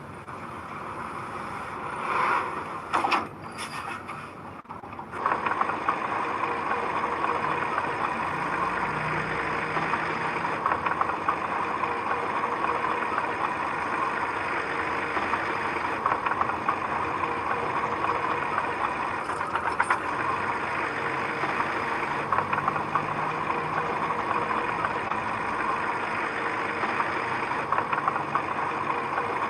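Heavy machine's diesel engine running steadily. The first few seconds hold a different, uneven mix with a few sharp knocks, then the sound changes abruptly about five seconds in.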